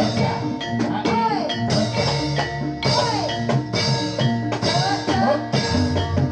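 Live Jathilan accompaniment music: drums beating a rhythm under several steady ringing tones, with a melody line that slides up and down in pitch.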